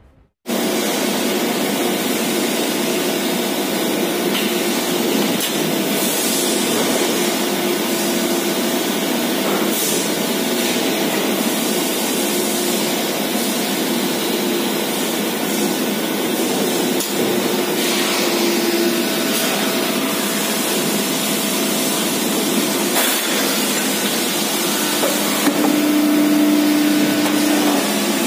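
Steady din of factory machinery on an exhaust-muffler production line: a continuous hiss and hum with now and then a sharp click or knock, and a stronger hum coming in near the end.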